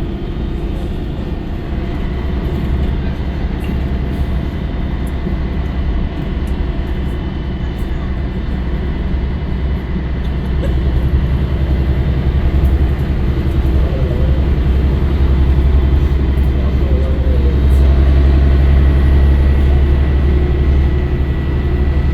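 Scania L113CRL bus's rear-mounted six-cylinder diesel engine running with a deep, steady drone, growing louder from about halfway through and easing slightly near the end.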